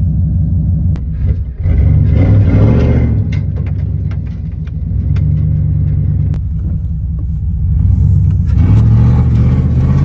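Pickup truck engine running with a low rumble, speeding up twice, about two seconds in and again near the end, with a few sharp clicks.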